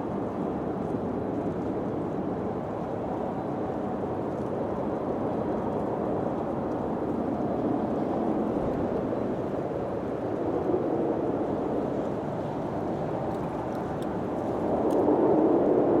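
Wind blowing in slow gusts, rising and falling, with the strongest gust near the end.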